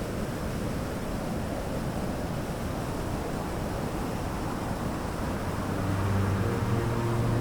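Steady rushing roar of a waterfall. Faint music begins to fade back in near the end.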